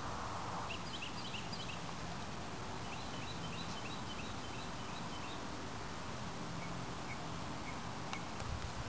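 Small birds chirping in short, high, repeated notes, coming in a few brief clusters, over a steady hiss of background noise.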